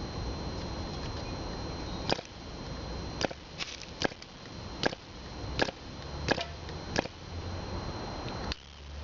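1938 Brat reproduction model airplane engine being hand-flipped to start, firing single sharp pops about once a second from about two seconds in without catching and running.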